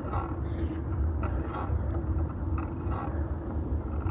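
Fixed-gear bike being ridden, picked up by a phone in a metal handlebar mount: a steady low rumble of tyres on the road and wind, with a few short hissy bursts.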